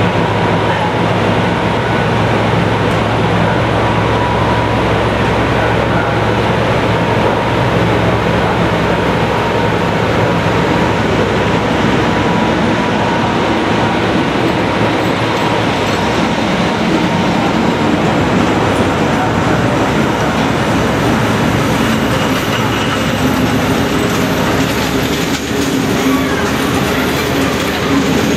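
MÁV class V43 25 kV AC electric locomotive pulling a passenger train away from the platform and passing close by, with a steady hum from the locomotive. The hum fades in the second half as the coaches roll past with steady wheel-on-rail rumble and clatter.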